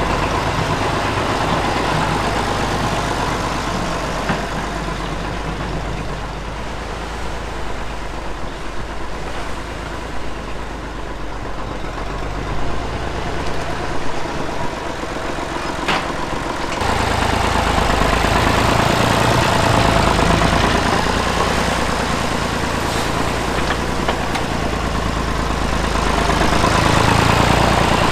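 Tractor engine running steadily. About two-thirds of the way through, its note steps up and grows louder, as if revved or put under load.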